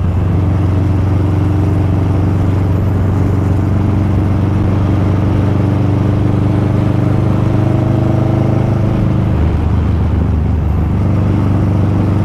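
Motorcycle engine running steadily while riding at road speed. About nine and a half seconds in, the engine note drops lower for a moment, then picks up again.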